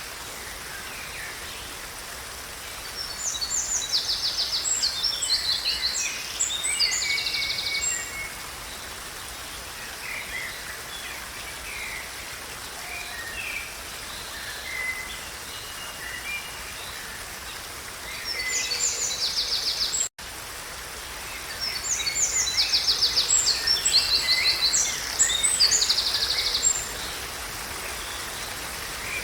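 A songbird singing a long, busy phrase of rapid trills and chirps twice, the second phrase nearly a copy of the first, with scattered single chirps in between, over a steady hiss. The sound cuts out for an instant about two-thirds of the way through.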